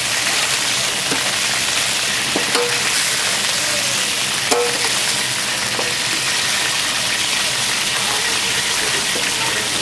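Chicken pieces sizzling steadily in hot oil in a large paella pan, with a few short metallic clinks of tongs against the pan and a steel tray as pieces are lifted out.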